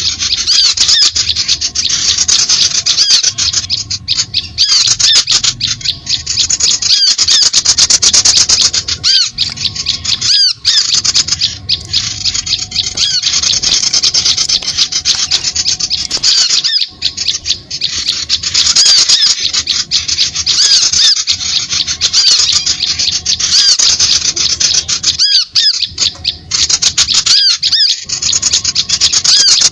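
Recorded bird-lure calls: an unbroken, rapid chatter of short high chirps and squeaky notes in quick succession, with a few brief pauses.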